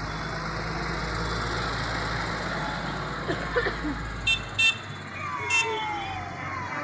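Tractor engine running past with crowd noise, then three short high horn toots from about four seconds in as the engine rumble fades.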